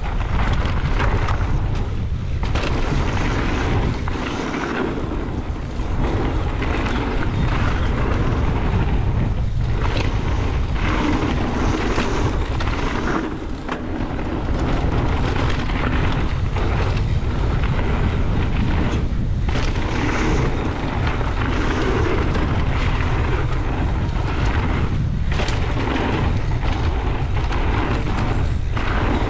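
Wind buffeting a body-mounted action camera's microphone on a fast mountain-bike run, a heavy low rumble over the steady rush of tyres on a dirt trail. The sound dips briefly about four and fourteen seconds in.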